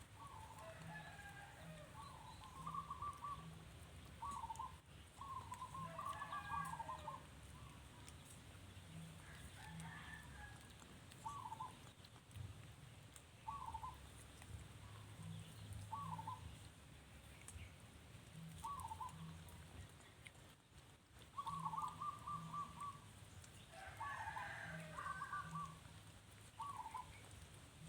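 Short, high animal calls repeated every second or two, with a few quick clusters of chirps, over a faint low hum.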